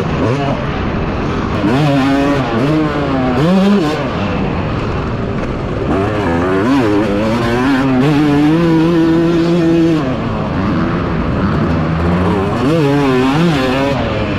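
Small pit bike engines racing, revving up through each gear and dropping back, several bikes at once. The throttle is held steady for a couple of seconds near the middle.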